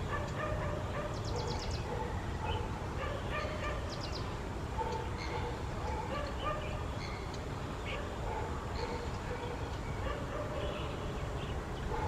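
A mix of lake birds calling: many short, overlapping calls and a few quick rattling chatters, over a steady low rumble.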